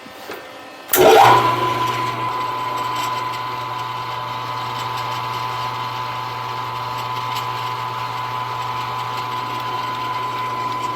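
Milling machine spindle motor switched on about a second in, spinning up with a short rising whine, then running steadily with a high whine over a low hum, and stopping near the end.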